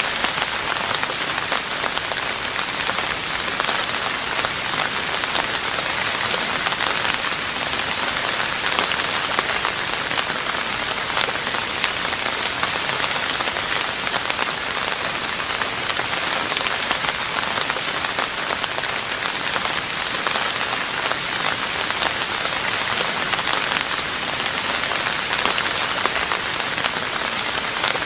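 Steady rain falling on a roof, a dense even patter of many drops.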